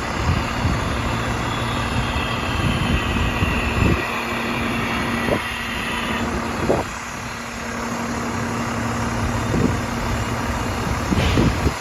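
Garbage truck's Mack MP7 diesel engine running with a steady hum. A whine falls in pitch over the first half, and several metallic clunks come through it.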